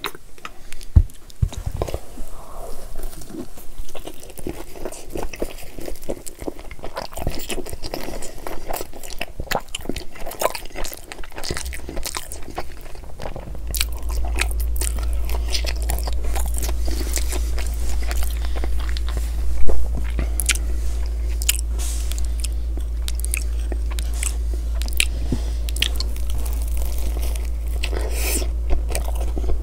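Close-miked mouth sounds of a person biting and chewing cheese and pepperoni pizza: irregular crunches of crust with wet, sticky clicks of chewing. A steady low hum comes in about twelve seconds in and stays under the chewing.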